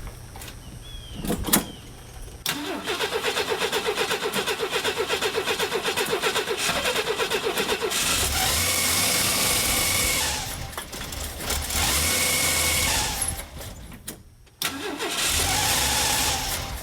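Ford 300 inline-six cranking on the starter in rapid even pulses for about five seconds, then catching and running under throttle. Near the end it sags almost to stalling and is picked up again: the freshly rebuilt engine won't idle.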